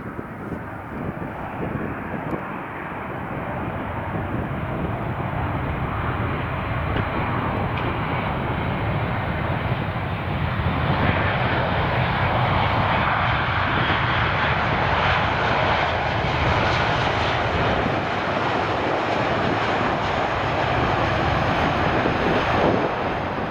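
Airliner's jet engines: a loud rush that builds over about ten seconds and then holds, with a faint thin whine rising slowly in pitch. It cuts off abruptly at the end.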